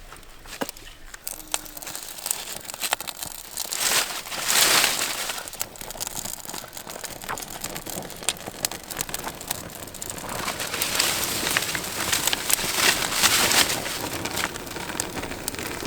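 Small campfire of damp wood and birch bark crackling and popping as it struggles to catch. A rushing whoosh swells up about four seconds in and again from about ten seconds.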